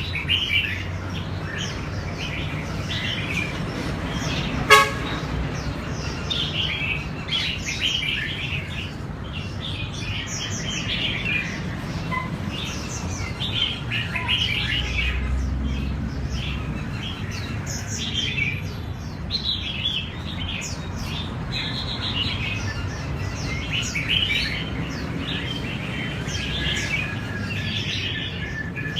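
Red-whiskered bulbuls singing, with short, bright warbled phrases repeating and overlapping throughout. A single sharp click about five seconds in, over a steady low rumble.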